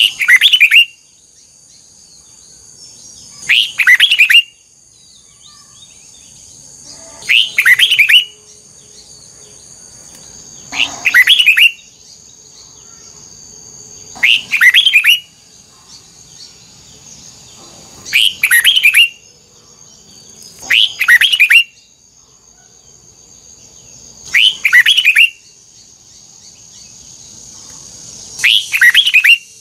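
Red-whiskered bulbul singing short, loud whistled phrases, one roughly every three and a half seconds, nine in all. A steady high-pitched whine runs underneath.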